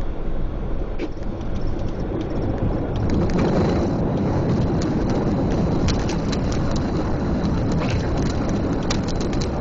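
Boeing 737 cockpit noise on the landing rollout: a dense rumble that grows louder about three seconds in, with frequent small rattles and clicks.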